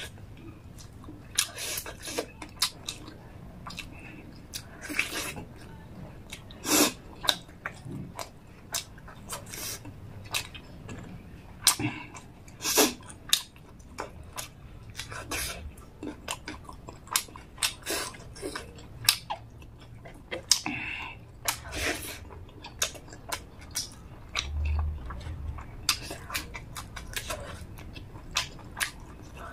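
Close-miked chewing and lip-smacking of a mouthful of rice and chicken gravy eaten by hand. It comes as a steady run of irregular wet clicks and smacks.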